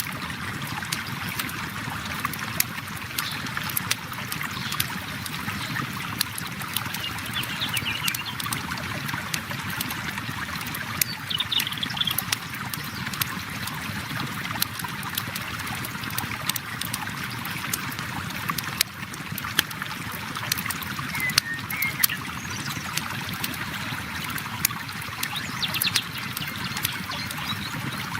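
River water flowing steadily, with a campfire crackling over it in frequent sharp pops. A few brief high chirps come and go.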